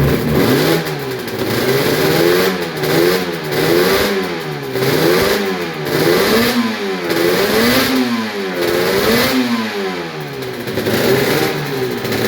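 Suzuki RG500 Gamma's square-four two-stroke engine, cold on its first start of the year, being blipped repeatedly. The revs rise and fall about once a second as it warms up, running smoky on premix.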